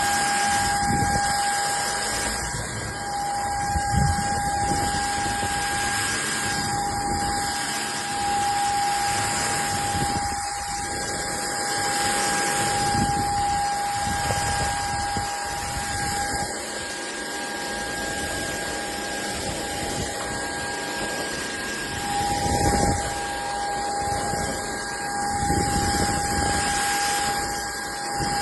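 SKIWEC cordless stick vacuum cleaner running: a steady high motor whine over a rushing hiss of air, with a few low knocks as it is moved.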